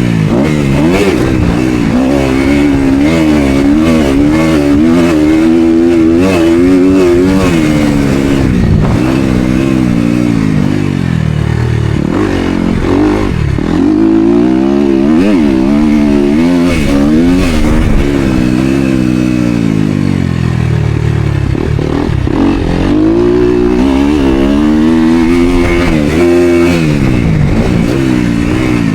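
Motocross dirt bike engine under hard riding, revving up and falling back again and again as the throttle is worked and opened through the gears.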